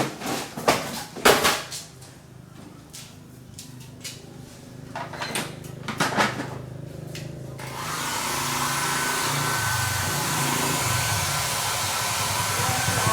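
A few sharp clicks and knocks of tools and parts being handled. About eight seconds in, a hot-air blower switches on and runs with a steady rush and a faint high whistle, as used for heating components on a circuit board.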